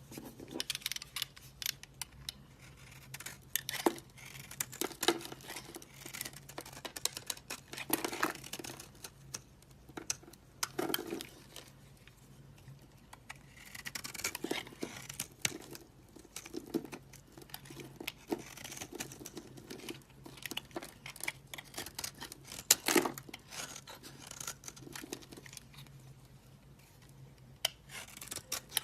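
Soap being cut and crumbled: crisp, crackling scrapes and crunches come at irregular intervals, with several louder strokes, over a faint steady hum.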